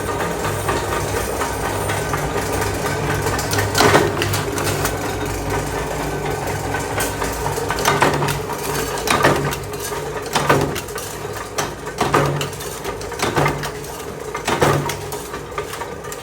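Workshop machinery running with a steady low hum, with a sharp knock about four seconds in and then a series of knocks roughly every second and a quarter through the second half.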